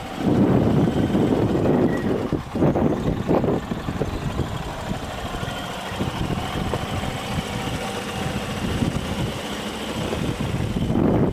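Engine idling steadily, louder during the first two seconds and again near the end.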